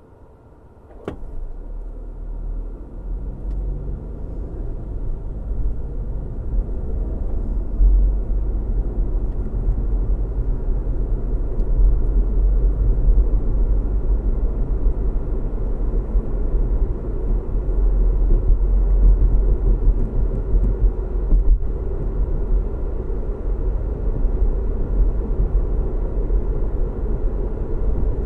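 A sharp click about a second in, then a car pulling away: the engine note rises over the next few seconds and settles into a steady, heavy low road rumble as it cruises.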